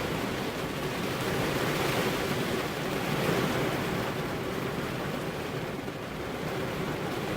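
Rain falling steadily on car window glass, an even wash of noise with no single drops standing out.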